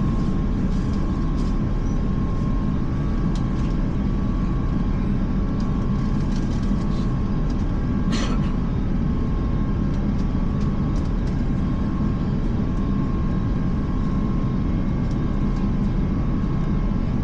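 Steady low rumble inside the cabin of an Airbus A350 airliner, with a thin steady whine near 1 kHz. A brief clatter sounds about eight seconds in.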